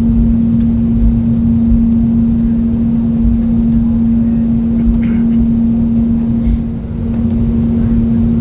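Steady aircraft cabin noise inside an Airbus A320neo on the ground before takeoff: a strong, even hum over a low rumble that holds unchanged, dipping slightly near the end.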